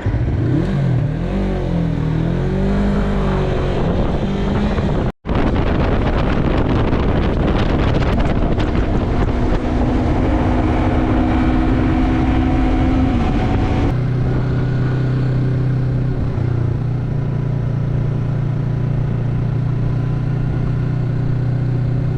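Yamaha MT-03 motorcycle engine pulling away and accelerating, its pitch rising and falling through the first gears. After a brief cut-out about five seconds in, it runs steadily at speed, dropping to a lower steady note about 14 s in, with a rush of wind noise.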